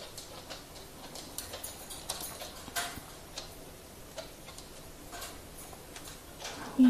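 Parrots nibbling and crunching Chinese toon leaves with their beaks: irregular small clicks and crackles.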